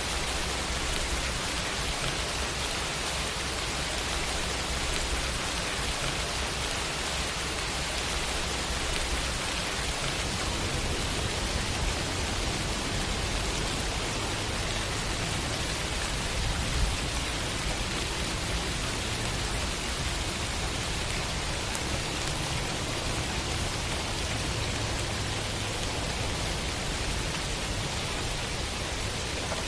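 Steady rain falling as an even hiss over a low rumble, with one sharper tap about seventeen seconds in.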